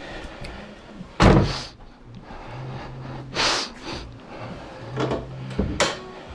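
Car body being worked as the hood is opened: a loud thud about a second in, a rushing scrape midway, and a sharp clack near the end.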